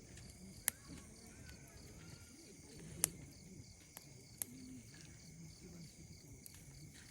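Wood campfire crackling with three sharp pops, over steady, evenly repeating insect chirping.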